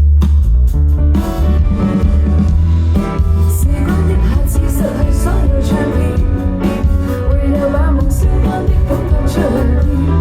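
A live indie pop band playing at full volume, with heavy bass, drums and guitar, and a voice singing over them.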